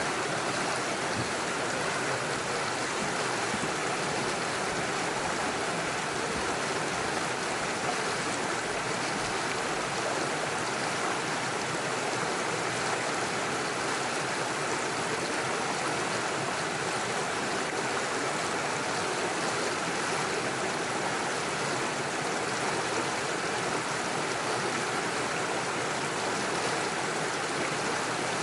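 Small mountain stream rushing over stones and little waterfalls, a steady, even flow of water.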